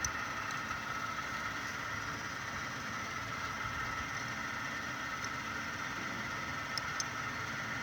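A 12-volt electric water pump running steadily, with a continuous hum and whine and a couple of faint ticks near the end.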